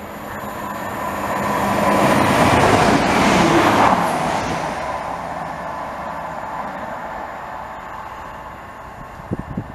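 Chiltern Railways diesel multiple unit passing through at speed. Its rushing noise builds over about two seconds, is loudest as the train goes by three to four seconds in with a falling pitch, then fades as it draws away. Gusts of wind hit the microphone near the end.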